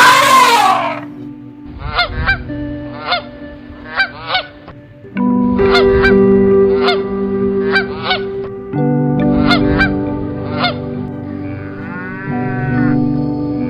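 Waterfowl honking: a dozen or so short, sharp calls in quick clusters of two or three, over background music with long held tones. It opens with a loud falling cry, and near the end a longer drawn-out animal call begins.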